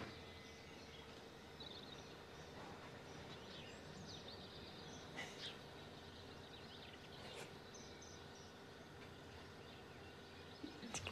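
Faint background ambience with a few soft, high bird chirps scattered through it, a low steady hum underneath, and a couple of light clicks.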